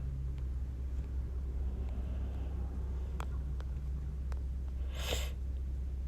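Steady low hum, with a few faint clicks scattered through and one short hiss about five seconds in.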